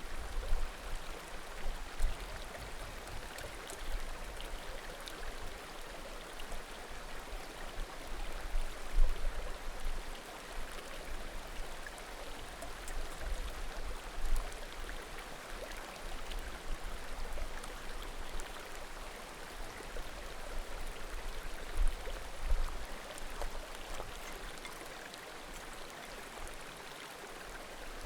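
Small mountain creek babbling steadily, with a few faint pops from burning firewood and occasional low thuds.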